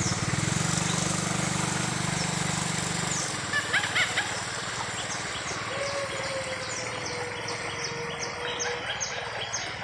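A motor's low hum fades out about three seconds in, leaving birds calling outdoors, with a steady run of short, high, falling chirps about twice a second through the second half.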